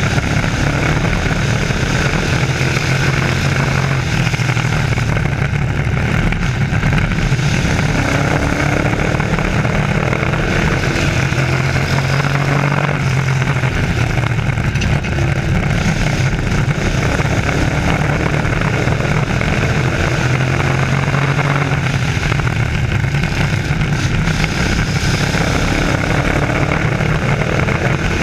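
Race trucks' engines running in a heat race, a steady loud pack sound whose pitch repeatedly rises and falls as they speed up and slow down.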